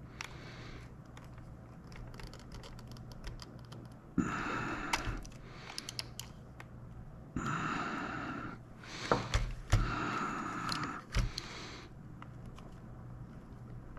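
Light plastic clicking and tapping from handling a joystick and its controls, with a few louder knocks around nine to eleven seconds in. Three times a soft hiss lasts about a second.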